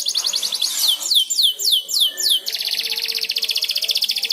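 Domestic canary singing: a fast rolling trill, then a run of about six quick downward-sweeping whistled notes, then another fast trill.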